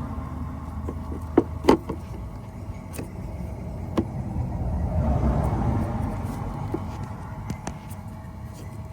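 A steady low rumble that swells and fades about halfway through, with a faint steady hum over it. A few sharp clicks and knocks come in the first half, the loudest two close together about a second and a half in.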